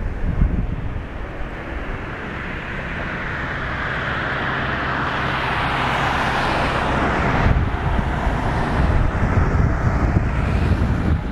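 Distant jet roar of a Boeing 777-200 climbing away after takeoff, swelling over several seconds and dropping off sharply about two thirds of the way through. Strong wind buffets the microphone with low rumbling gusts.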